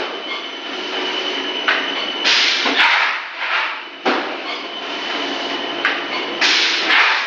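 Extruder machine running through its repeating work cycle: sharp knocks and a loud burst of hiss recurring about every four seconds, over a steady high whine.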